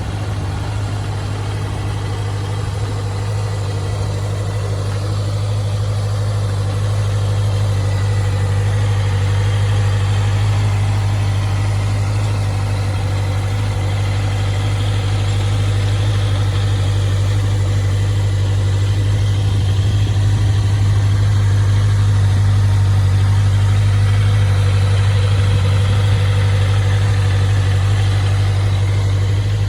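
Honda CBR650F's inline-four engine idling steadily.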